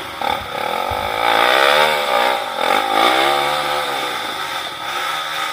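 Off-road trail motorcycle engine revving, its pitch rising and falling a few times before settling back.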